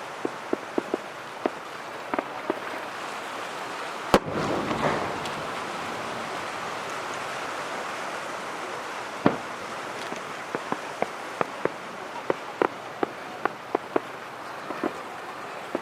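Fireworks display: scattered sharp pops and crackles, a loud burst about four seconds in followed by a brief crackling hiss, another bang about nine seconds in, then a quick run of pops near the end.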